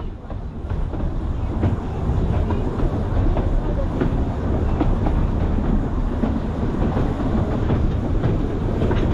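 Narrow-gauge WW1 steam train running past, its wheels clicking over the rail joints. The sound swells over the first couple of seconds and then holds steady.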